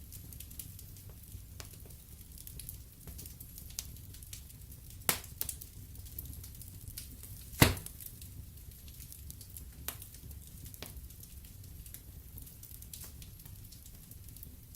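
Wood fire in a fireplace crackling over a low steady rumble, with scattered small snaps. Two louder pops come about five seconds in and, loudest, about halfway through.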